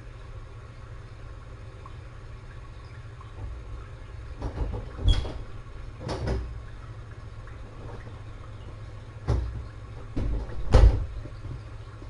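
Several dull knocks and clunks, in two clusters about four seconds apart, over a steady low hum.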